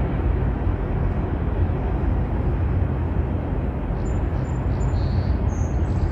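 Train going by with a steady, loud low rumble. A few brief, faint high-pitched squeaks come in about four seconds in.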